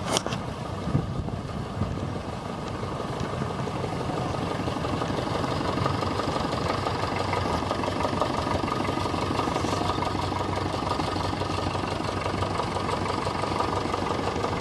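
Vintage tractor engine running steadily, growing a little louder over the first few seconds and then holding level.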